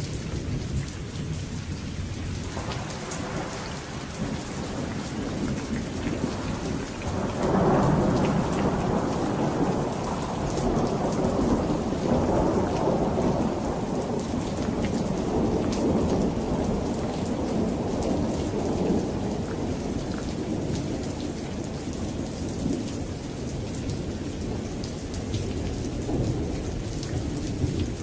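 Steady rain on surfaces with a long roll of thunder that builds a few seconds in, peaks sharply at about seven and a half seconds, and rumbles on, slowly fading.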